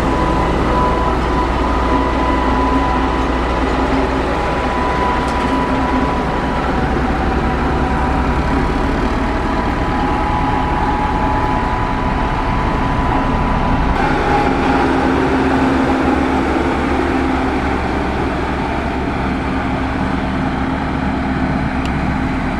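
Motor grader's diesel engine running steadily under load, with several held whining tones over a low rumble; the deepest part of the rumble falls away about two-thirds of the way through.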